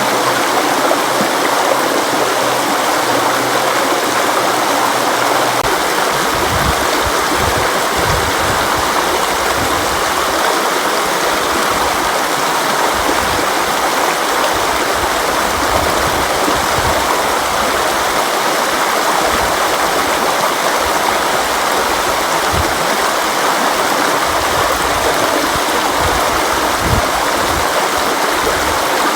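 River water flowing steadily: a dense, even rush. About six seconds in, a deeper low rumble joins the flow.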